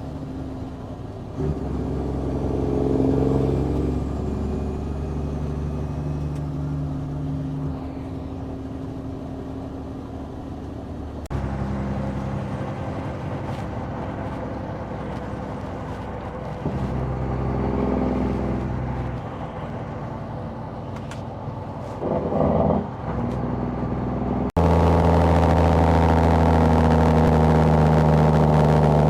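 Mack semi truck's diesel engine running under way, its pitch rising as it pulls through the gears and falling again at the shifts. The sound changes abruptly twice, at about a third of the way in and again near the end.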